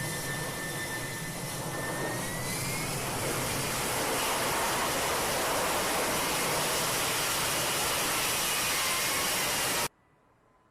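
F-35B Lightning II's F135 jet engine running loudly, its whine rising in pitch and the roar building over the first few seconds, then holding steady. The sound cuts off suddenly near the end.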